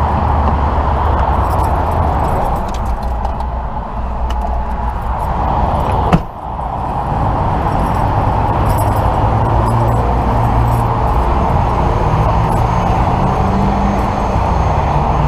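A vehicle engine running steadily, its pitch stepping up in the second half. One sharp knock comes about six seconds in.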